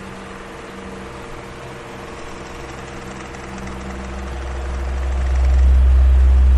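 Electric fan running with a steady motor hum. Its low rush of air dips at the start and swells back to full strength in the second half.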